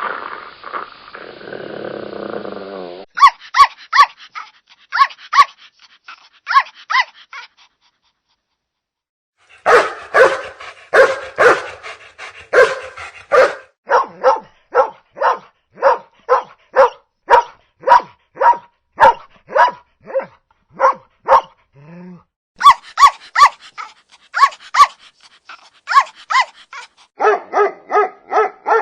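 Short, evenly spaced yapping barks, about two a second, in bursts broken by a silence about eight seconds in. A rougher, hissing sound opens.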